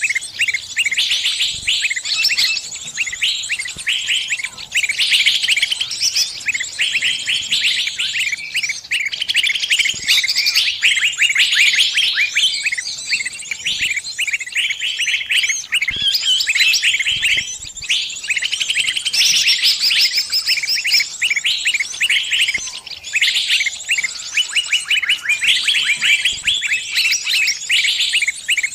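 Small songbird distress calls: rapid, shrill chirps repeated without pause, the calls of a bird caught in a trap.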